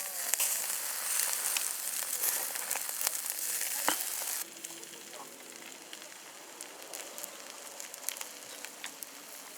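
Food sizzling in a hot pan: a dense hiss with scattered pops. About four and a half seconds in it drops abruptly to a much fainter hiss with occasional small crackles.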